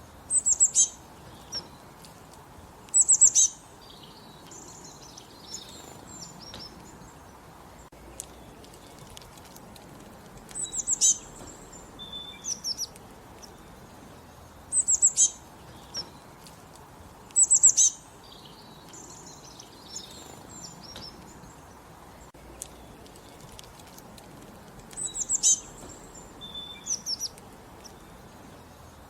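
Songbirds singing: short bursts of high, rapid chirping notes repeat every few seconds, with fainter chirps in between, over a low steady background hiss.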